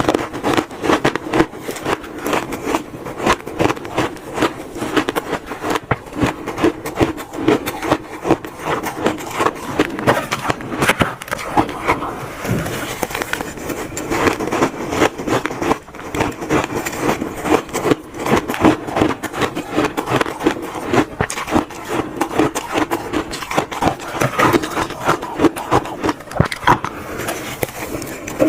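Close-up crunching and chewing of frozen shaved ice, a dense, continuous crackle of small crisp cracks.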